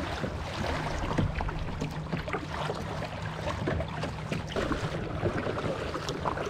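A kayak being paddled: paddle splashes and water lapping against the hull, with a steady rumble of wind on the microphone.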